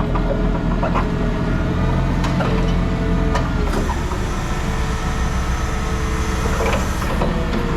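Vehicle engine running steadily with a low rumble, its note shifting a little about four seconds in, with a few scattered clicks and knocks.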